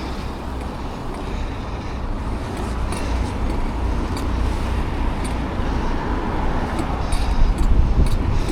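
Riding noise on an e-bike: a steady low rumble of wind on the microphone and road noise, slowly growing louder, with a few light clicks and rattles.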